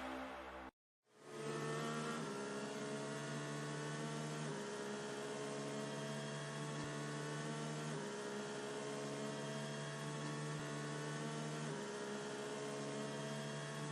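Soft background music: a sustained synthesizer drone whose chord shifts every few seconds. It starts after a short silent gap about a second in.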